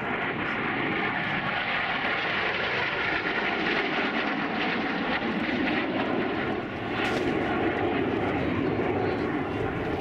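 Aircraft engine running: a steady roar with a held whine of several tones, easing briefly about six and a half seconds in.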